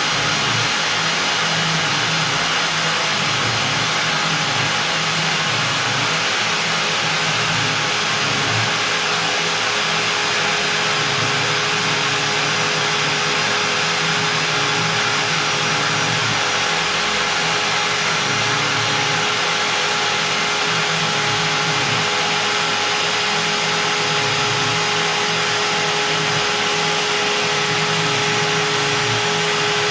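Stepcraft M1000 CNC router cutting out beech with a 4 mm two-flute up-down compression bit, its spindle running at 25,000 rpm. A steady whine sits over a continuous noisy hiss, unchanged throughout.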